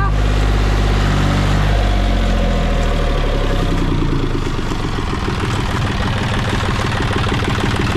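Farm tractor's diesel engine running close by, its speed dropping about two to four seconds in and settling into a slower, evenly pulsing idle.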